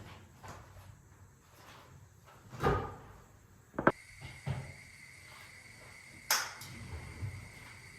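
Kitchen handling sounds: a few separate knocks and clicks, like cupboard doors, drawers or items being set down, the sharpest about four seconds in. A faint steady high whine starts right after that click.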